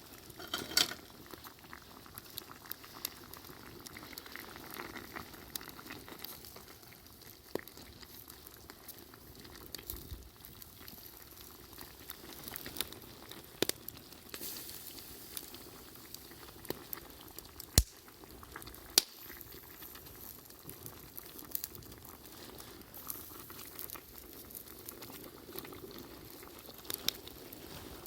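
A pot of tonjiru (pork miso soup) simmering over a campfire, a steady bubbling, with a few sharp pops scattered through it.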